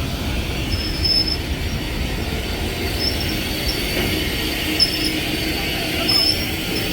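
Steam train moving along the track, with several short, high wheel squeals over a steady rumble.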